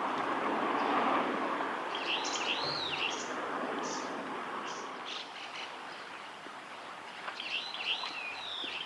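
A small bird singing two short warbling phrases of rising and falling whistles, one about two seconds in and one near the end, over the steady rush of flowing river water.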